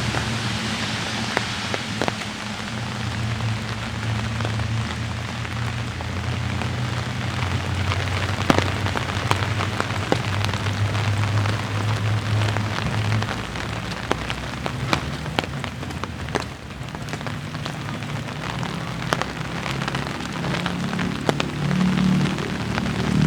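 Light rain falling steadily, with many scattered sharp raindrop ticks close by, over a low steady rumble of road traffic.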